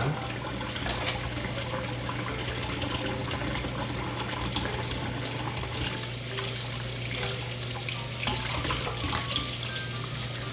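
Kitchen tap running steadily into a sink during dishwashing.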